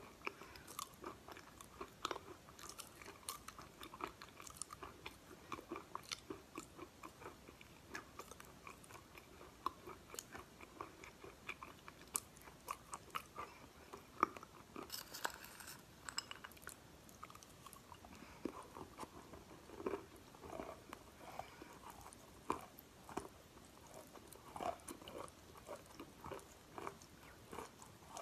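Chalk being bitten and chewed close to the microphone: irregular dry crunches and crackles, several a second.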